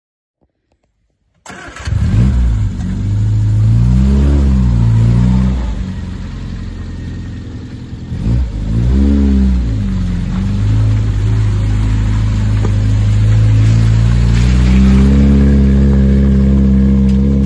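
Triumph Spitfire's four-cylinder engine running, revved up and down twice, then held steady at slightly raised revs.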